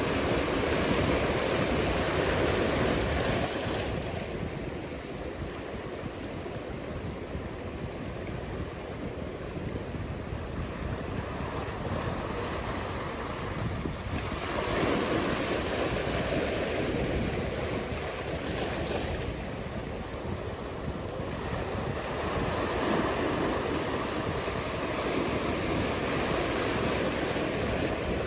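Ocean surf: waves breaking and washing in as a continuous rushing noise that swells and eases every several seconds, with some wind.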